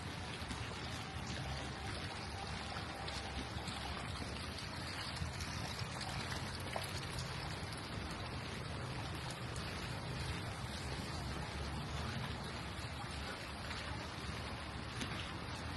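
Steady rain on a street, with water trickling and pouring, and a few faint drip-like ticks.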